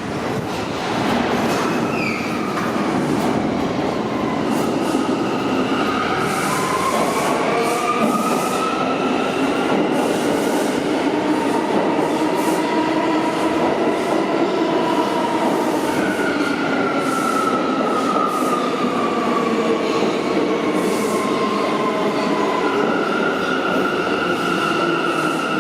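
Subway train moving slowly along the track, its wheels squealing in several high, wavering tones over a steady rumble.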